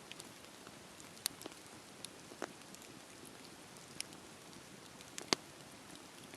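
Wood fire crackling: a steady soft hiss with scattered sharp pops, the loudest about a second in and another near the end.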